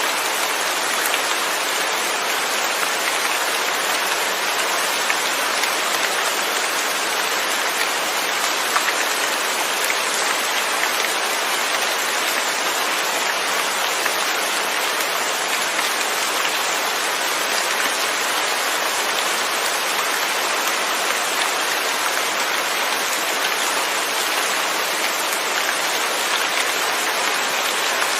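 Steady rain falling on a surface, a dense even patter of drops with no thunder.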